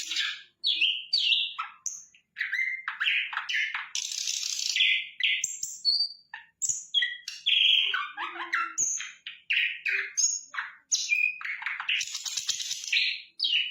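A sikatan londo flycatcher in full song: a rapid, varied string of chirps, trills and harsh buzzy phrases, broken by short pauses.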